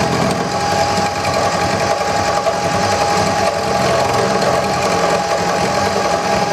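Wood lathe running with a steady whine while a turning tool cuts into the spinning handle blank, a continuous rough scraping of the chisel on the wood.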